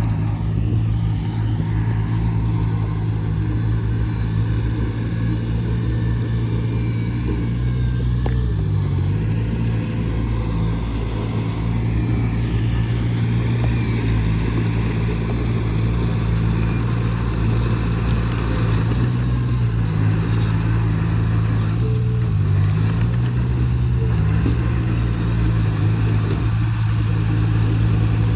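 Diesel engine of heavy earthmoving equipment running steadily, its pitch dipping briefly a few times, about a third of the way in and again twice near the end.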